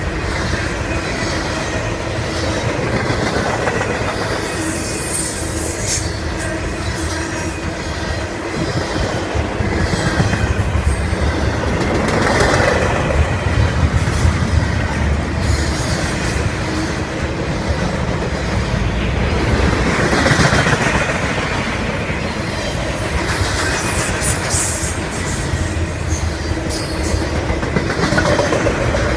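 Intermodal freight train cars passing at speed: a steady rumble of steel wheels on rail with clickety-clack and a thin wheel squeal, swelling louder twice.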